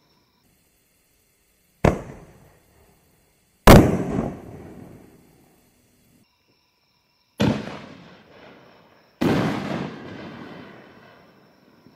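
4-inch canister shells from a consumer fireworks mortar kit going off: four sharp bangs in two pairs, each pair about two seconds apart. Each bang trails off in a long echo, and the second bang is the loudest.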